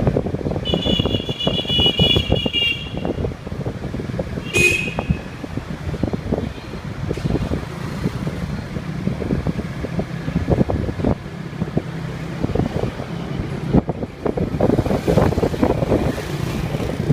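Street traffic heard while riding a motorbike: a steady rumble of engines with wind gusting on the microphone. A vehicle horn sounds for about two seconds near the start, and a short toot follows a couple of seconds later.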